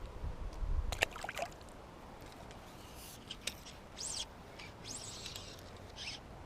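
A low rumble and a few sharp clicks in the first second and a half. Then faint, short, high bird chirps over quiet outdoor background, about four and five seconds in.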